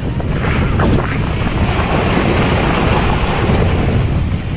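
Strong wind buffeting the microphone over a loud, steady rushing noise.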